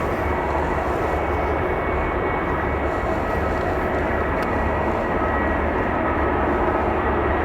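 Jet airliner engines running: a steady rush with several whining tones held through it, slowly getting louder.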